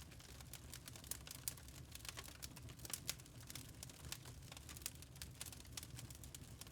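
Wood fire in a fireplace crackling, with irregular small sharp pops and snaps over a soft low rumble of the flames.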